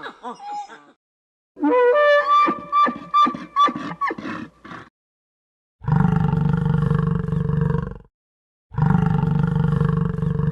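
A quick run of short, pitched animal calls, then two long, deep, steady roars of about two seconds each.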